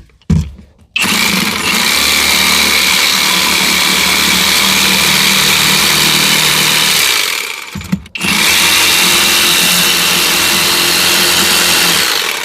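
Handheld electric power tool trimming a sink cut-out in a wooden worktop. It runs steadily for about six seconds, stops briefly, then runs again for about four seconds.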